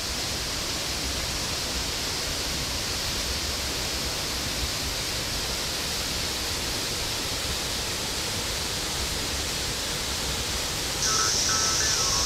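Steady rushing noise of falling or flowing water. About a second before the end, a tune with steady chime-like notes starts over it.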